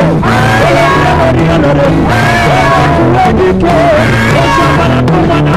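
Live gospel band music, loud and continuous, with a moving bass line under a bending lead melody.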